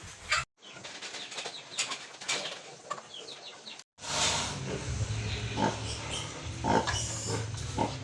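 Pigs grunting with a few short squeals, over a steady low hum. The sound drops out briefly twice, about half a second in and near the middle.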